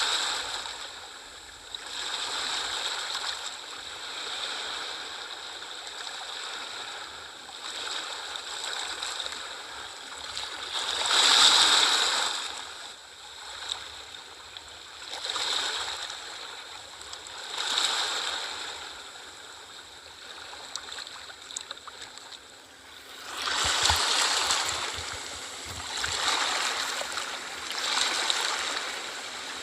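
Sea waves washing ashore, a hiss of surf that swells and fades every few seconds, with bigger breaks about eleven seconds in and again near twenty-four seconds.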